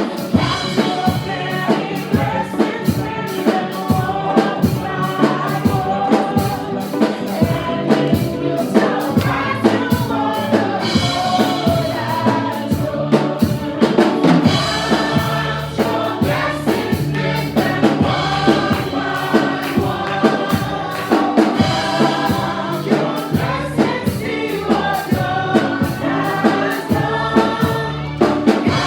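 Gospel praise and worship music: a group of singers with drum kit and band keeping a steady beat.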